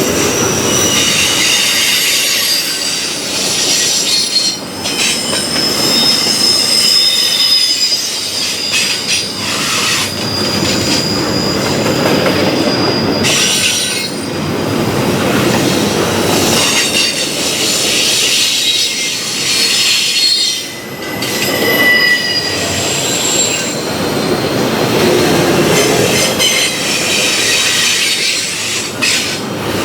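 Freight train cars rolling past at close range over a steady rumble of wheels on rail, with wheel flanges squealing against the rails in thin, high, wavering tones that come and go.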